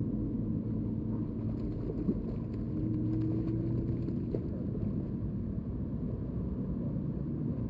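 Steady low hum of an engine running in the distance, its pitch shifting slightly about three seconds in, with a single sharp click about two seconds in.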